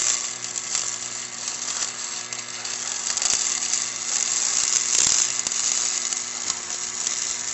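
Stick-welding arc crackling and sizzling steadily as a rod burns into steel, over a steady low hum.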